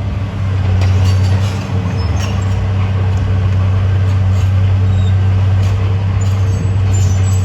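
Heavy diesel engine of earthmoving equipment running steadily at a constant low pitch, with scattered light clinks over it.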